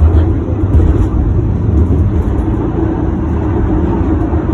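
Steady low rumble of a running vehicle, its energy sitting mostly very deep, with no distinct knocks or changes.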